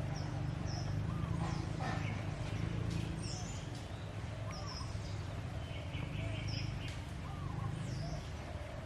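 Birds chirping in short high notes, repeated every second or so, with softer, lower rise-and-fall calls among them, over a steady low rumble.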